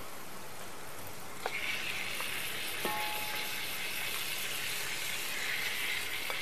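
Masala frying in oil in a pot, its sizzle growing louder about a second and a half in as boiled trotters are spooned in. A few light clinks of a spoon against a ceramic bowl.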